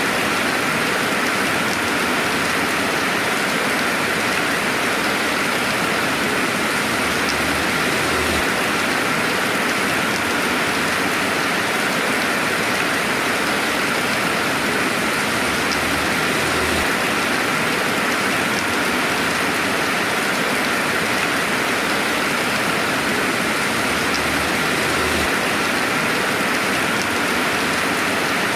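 Steady rainfall, a dense even hiss of drops with no thunder.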